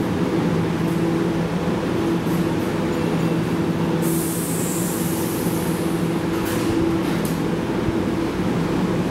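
Keihan 9000-series electric train standing at the platform, its onboard equipment giving a steady low hum with two held tones. About four seconds in, a short burst of compressed-air hiss sounds for just over a second.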